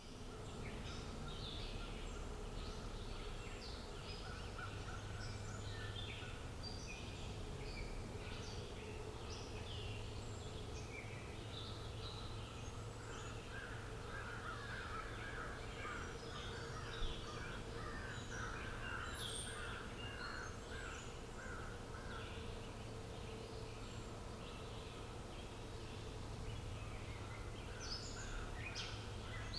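Outdoor birdsong ambience: many birds chirping and calling in short high notes throughout, with a fast run of lower repeated notes through the middle, over a steady low hum. One sharp click a little past halfway.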